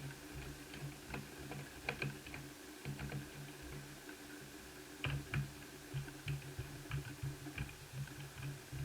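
Light, irregular clicks and ticks of a small screwdriver and plastic laptop parts being handled while the cooling system cover is unscrewed, with a few sharper clicks about two and five seconds in, over a steady low hum.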